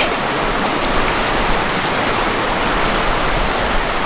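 Mountain stream rushing over rocks: a steady, loud sound of falling water.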